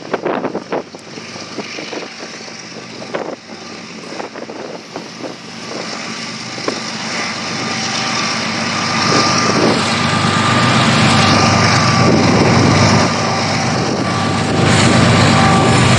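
CSX GE ES40DC diesel-electric locomotive, with its GEVO-12 V12 diesel working hard under load. Its rumble grows steadily louder over the first ten seconds and then holds, and a steady whine comes in about halfway through. Scattered clicks and crackles are heard in the first few seconds.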